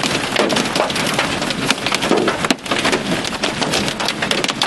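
Hail and heavy rain pelting down: a dense rattle of hard, quick hits over a steady rush, with a brief lull about two and a half seconds in.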